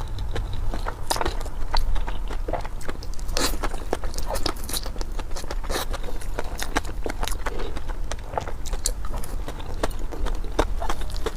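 A person biting and chewing food close to the microphone, with many short, irregular mouth clicks and smacks over a steady low hum.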